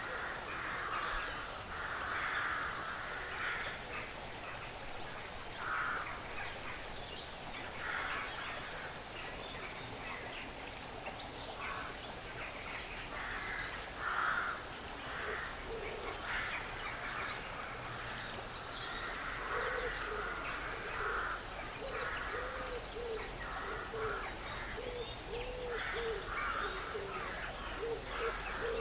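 Woodland ambience: small birds give high chirps over repeated scratchy, rustling bursts. In the last third a bird adds a quick series of short, low hooting notes, about two a second.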